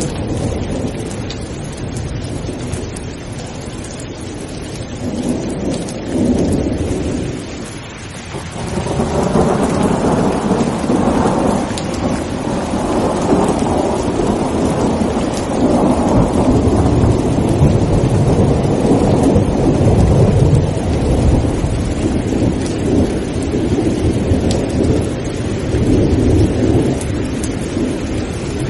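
Steady heavy rain with rolling thunder: a long, deep rumble builds about eight seconds in, swells to its loudest a little past the middle, and dies away slowly under the rain.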